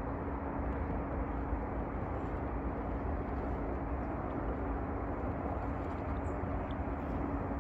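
Steady outdoor rumble and hiss, even throughout, with a faint constant hum running under it.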